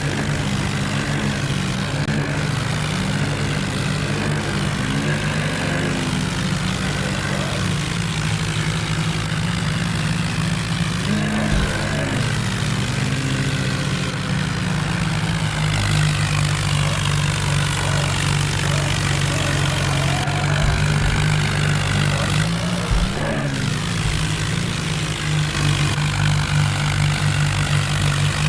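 Tractor engine running with a steady, loud drone, its pitch briefly wavering about eleven seconds in and again near twenty-three seconds.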